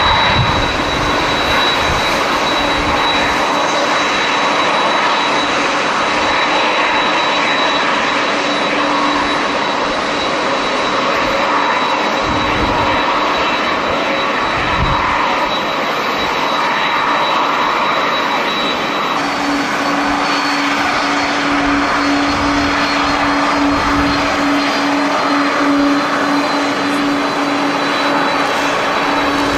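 Jet airliner engines running with a steady loud noise, a high whine and a lower hum that grows stronger about two-thirds of the way in. Strong wind buffets the microphone.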